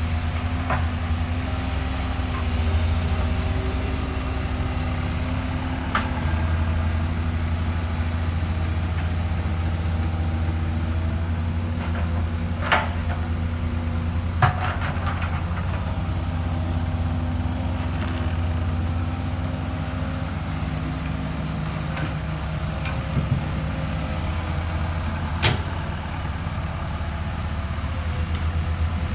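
Excavator's diesel engine running steadily, with a few short sharp knocks scattered through it.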